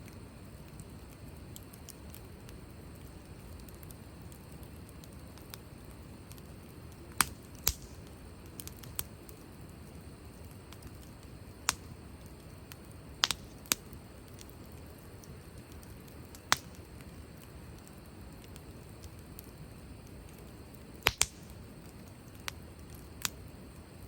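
Wood burning in a campfire fire pit, with a low steady flame noise and irregular sharp pops and crackles from the burning wood, about a dozen scattered through the stretch.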